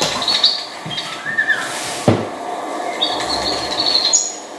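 Birds chirping in short high calls, with a single sharp crack about two seconds in.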